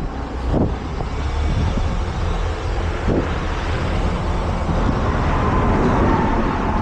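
Heavy truck's diesel engine running steadily with a low hum, while a faint whine builds about five seconds in.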